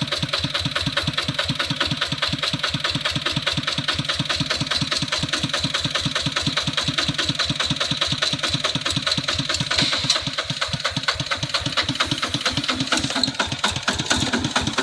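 Kubota two-wheel hand tractor's diesel engine running steadily, a fast even chugging.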